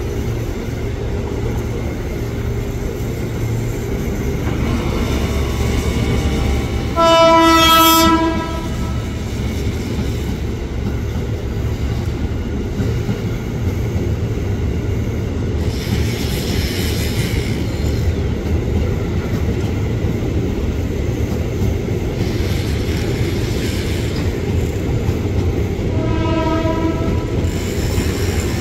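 KRL Commuter Line electric train running through the station, its wheels rumbling steadily on the rails. Its horn sounds a single steady note for about a second, about seven seconds in, and gives a second, shorter blast near the end.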